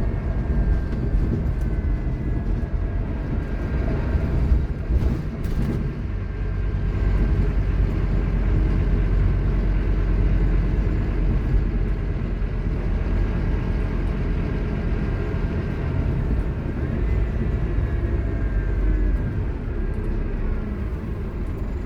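Scania K230UB Omnilink bus under way: low diesel engine rumble with the loud whine of its ZF Ecomat automatic gearbox, the whine drifting in pitch and rising briefly about three-quarters of the way through.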